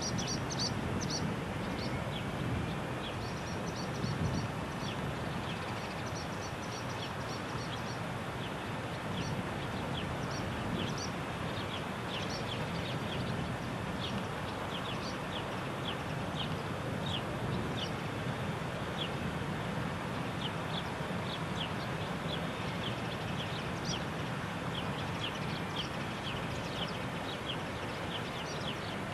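Small birds chirping over and over in short, high, quick chirps, over a steady distant rumble of airliner jet engines idling across the airfield.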